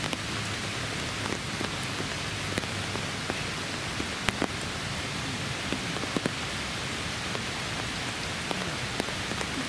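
Steady rain falling: an even hiss with individual drops ticking sharply close by, a few times a second.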